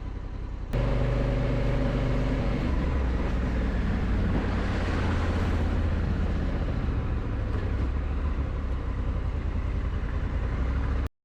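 Honda Africa Twin's parallel-twin engine pulling steadily under load up a steep climb, mixed with wind and road noise. It comes in abruptly and much louder a little under a second in, after a quieter engine sound, and cuts off suddenly near the end.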